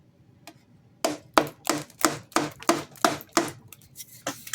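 Repeated knocks on a sump pump's plate to knock it loose, about ten strikes at roughly three a second, starting about a second in.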